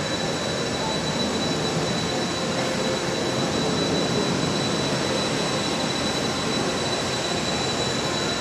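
Fighter jet engine running steadily: a constant roar with a thin high-pitched whine held at one pitch throughout.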